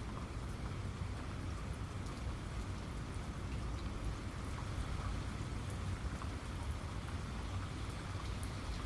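Steady rainfall, a continuous hiss of falling rain over a low rumble, with scattered faint drips and ticks of drops.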